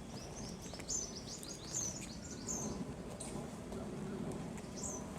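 Small birds chirping: a quick run of short, high chirps through the first half or so, then a few scattered calls, over a steady low background rumble.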